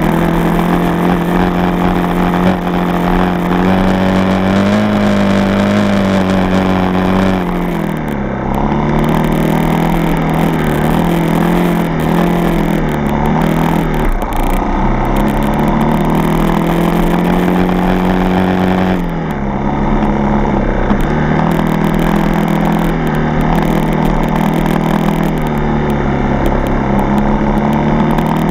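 Yamaha TT-R230 dirt bike's single-cylinder four-stroke engine running under way, its note rising and falling with the throttle. The note dips sharply twice, about a quarter and two thirds of the way through.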